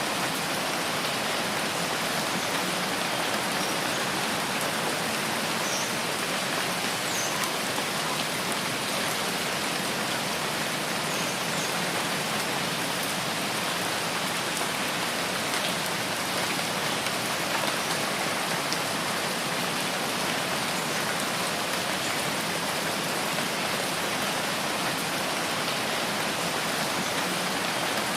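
Steady rain falling in a rain forest, an even hiss of drops on foliage with no let-up.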